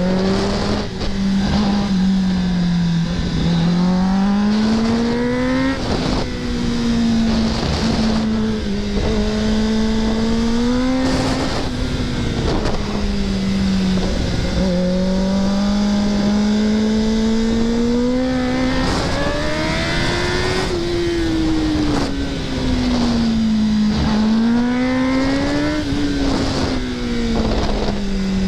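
Kawasaki ZX-10R's inline-four engine under way, its pitch rising and falling again and again as the throttle is opened and closed through a series of bends, with wind noise underneath.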